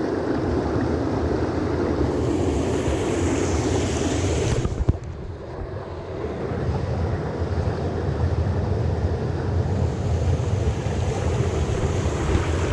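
Steady rush of mountain-stream water, with wind buffeting the microphone. A single sharp knock comes about five seconds in, and the noise drops for a second or so before building back.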